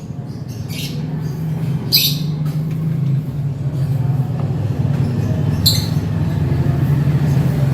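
A steady low machine hum, with three short, sharp lovebird squawks: about a second in, two seconds in, and near six seconds in.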